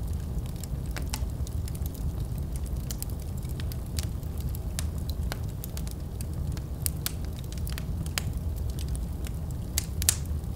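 Wood fire crackling in a fireplace: many irregular sharp pops and snaps, with a louder pop near the end, over a steady low rumble of the flames.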